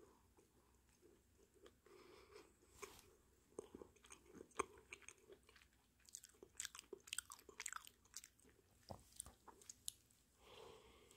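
Close-up chewing of a soft, thick chocolate cookie-style bread, with crunchy bites on its chocolate chips: quiet, with a cluster of sharp crackly crunches about six to eight seconds in.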